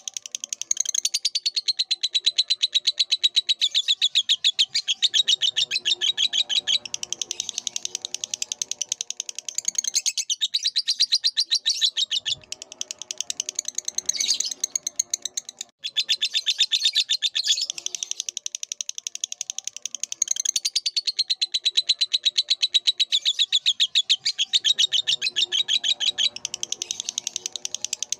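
Lovebird singing in a long, rapid, shrill chatter of many notes a second, with only brief breaks.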